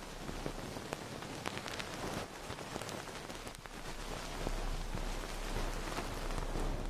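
Dense crackling patter: many small clicks over a steady hiss, like rain on a surface, slowly growing louder.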